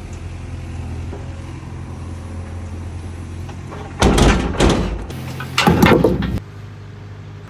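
An engine runs steadily, with two loud bursts of noise about four and five and a half seconds in. The sound drops to a quieter hum near the end.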